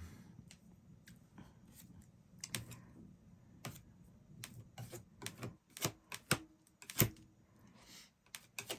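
Irregular sharp taps and clicks of painting tools against canvas and palette while picking up and dabbing on white paint, with a couple of soft brushing swishes.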